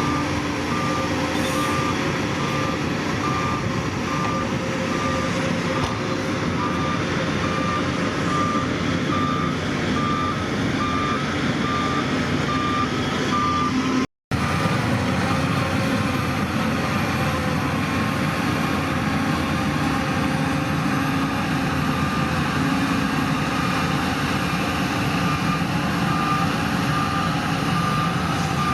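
Reversal alarm on heavy construction machinery beeping steadily, about two beeps a second, over the steady running of a diesel engine. The sound cuts out for an instant about halfway through.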